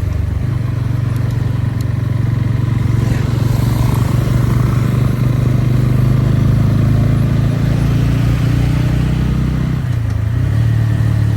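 Motorcycle engine running at a steady speed while riding. About ten seconds in, the note dips briefly and settles at a new pitch.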